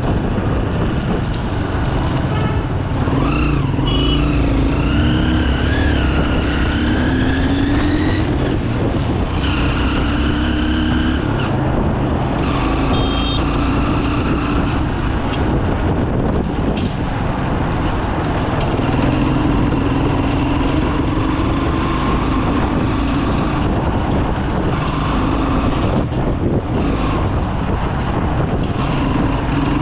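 Bajaj Pulsar 200 motorcycle's single-cylinder engine running on the move, its pitch rising and falling with the throttle, over a steady rush of road noise.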